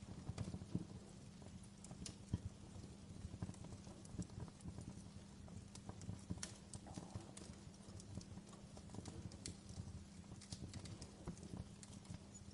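Wood fire in a fireplace crackling, with irregular sharp pops and snaps over a low steady rumble of the flames; a louder pop comes about two seconds in.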